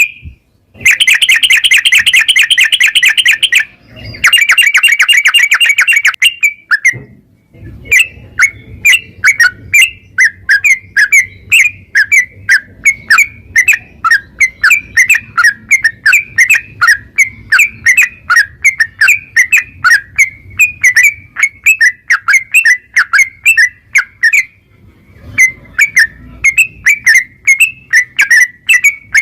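Yellow-vented bulbul (trucukan) singing loudly. Two fast, rattling trills of a few seconds each open the song, then it runs into a long series of quick, sharp chirps, about three a second, with a brief pause near the end.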